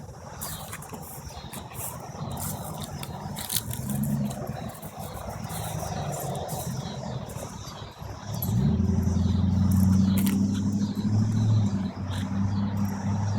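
A motor vehicle's engine running steadily, growing louder about eight and a half seconds in, with scattered clicks and rattles.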